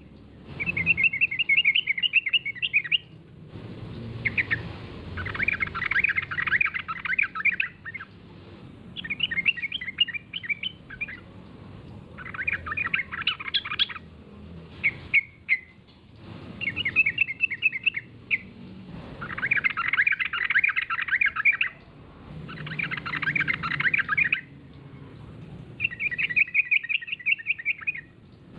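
Yellow-vented bulbul (trucukan) singing: repeated bursts of rapid, bubbly chattering notes, each lasting a second or two with short pauses between, played as a lure call.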